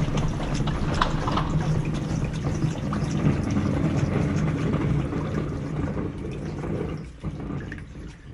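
Water running, a steady rush with small splashes and drips that dies down about seven seconds in.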